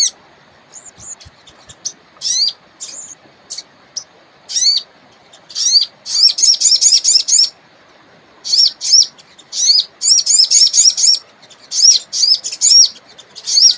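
A wild sogon songbird singing in bursts of rapid, high chirping notes that swoop up and down, in phrases of a second or two with short pauses between. Under it runs a faint steady rush of river water.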